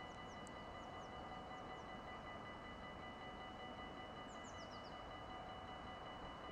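Quiet outdoor background noise with a faint steady whine of several high tones. A small bird gives thin, high falling chirps: a few near the start, then a quick run of about five about four and a half seconds in.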